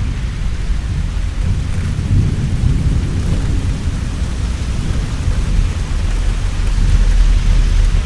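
Heavy rain falling steadily, with thunder rumbling low underneath that swells a couple of seconds in and again near the end.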